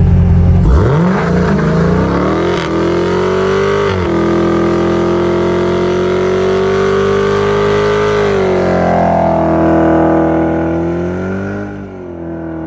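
Supercharged 6.2-litre V8 of a Dodge Challenger Hellcat Redeye revving up and held at high revs through a burnout, the rear tyres spinning. The revs shift about two-thirds of the way in and drop near the end.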